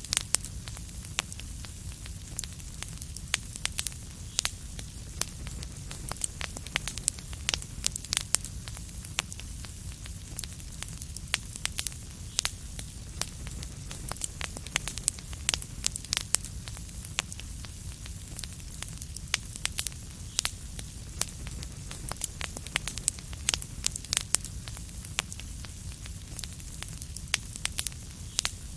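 Wood fire crackling: a steady stream of sharp pops and snaps over a low, even rumble of the burning fire.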